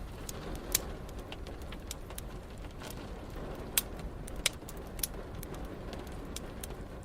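Wood fire crackling: irregular sharp pops and snaps, a few louder ones, over a steady low background noise.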